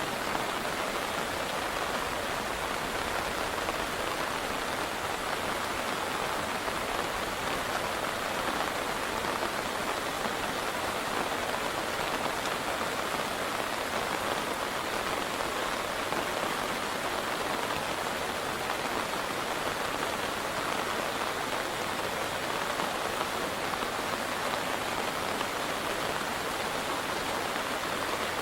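Steady, even hiss of water noise without any sudden events, as of heavy rain or flood-swollen river water.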